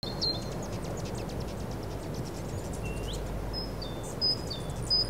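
Birds calling: short, high whistled notes, several dropping from a higher to a lower pitch and one rising note about three seconds in, over a steady low background rumble of outdoor ambience.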